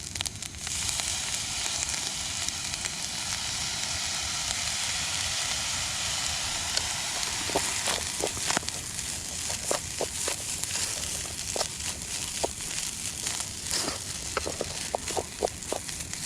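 Corned beef fried rice sizzling in a hot pan, the hiss setting in just after soy sauce goes in and easing off over the first half. Through the second half a cooking utensil clicks and scrapes against the pan as the rice is stirred.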